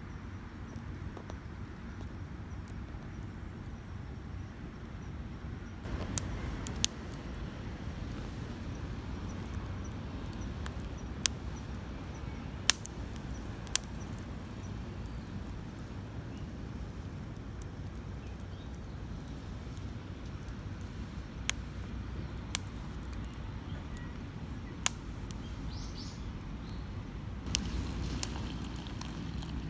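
Wood campfire burning, with a steady low rumble and about a dozen sharp, irregular crackling pops.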